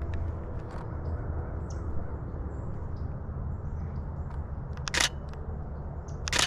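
Canon Rebel T7i DSLR shutter firing in two short bursts, about five and six and a half seconds in, over a steady low background rumble.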